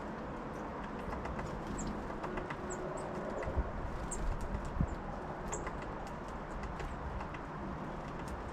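Small songbirds at a deck feeder: a handful of short, high chirps over light clicks and taps, with two low thumps near the middle.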